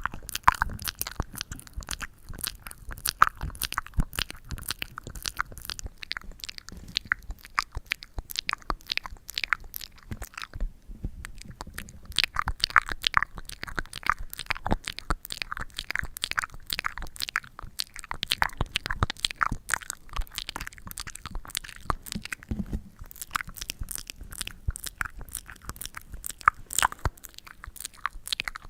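Close-up sticky ASMR sounds: a tacky material handled right at the microphone, giving a dense, fast run of crackles and little clicks, with a brief lull about eleven seconds in.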